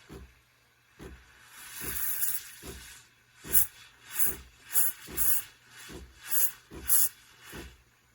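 Espresso machine steam wand frothing milk: hissing steam in surges, with a rhythmic low pulsing underneath and the sharp hiss spurts coming about every two-thirds of a second in the second half. The wand is slow to heat the milk, which is not yet lukewarm.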